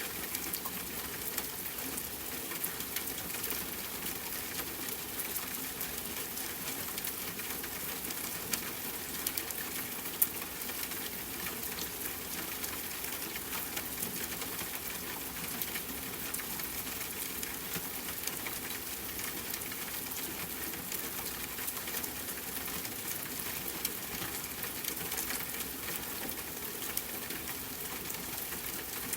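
Steady rain falling with a campfire crackling, many small crackles over the rain's even hiss and one sharper pop about ten seconds in.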